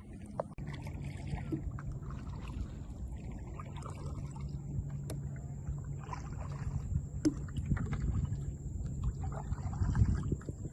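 Kayak being paddled: paddle strokes and water splashing against the hull, with a low steady hum through most of it.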